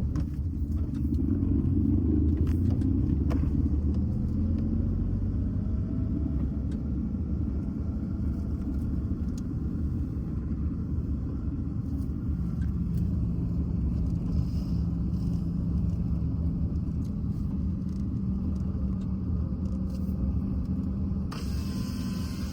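Steady low rumble of a motor vehicle on the move, with the road and engine noise running continuously; a brighter hiss joins in near the end.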